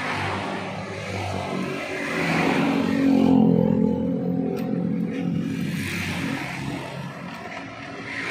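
Motorcycle engine fitted with an aftermarket racing exhaust, revved up to a peak near the middle and then easing back down.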